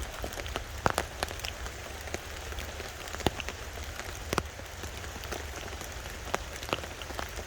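Heavy rain drumming on a tarp overhead: a steady hiss of rain with many irregular sharp taps of larger drops hitting the tarp.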